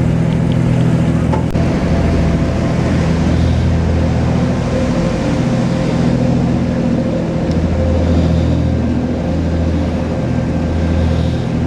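Tour boat's engine running steadily under way: a constant low hum with a steady tone above it, over an even rush of water and wind noise.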